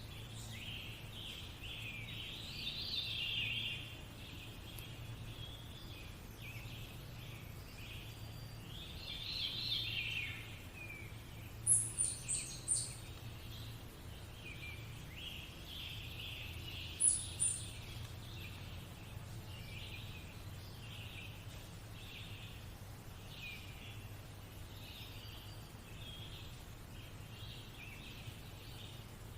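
Background nature recording of many small birds chirping and singing continuously, swelling louder twice, with a short run of very high, quick notes about 12 seconds in and again near 17 seconds, over a low steady hum.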